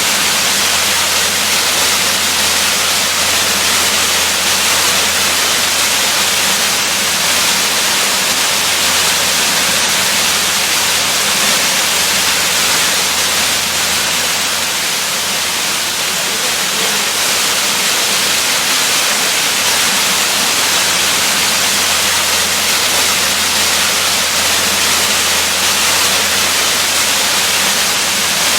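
Waterfall, a steady, unbroken rush of falling water with a hiss-like character.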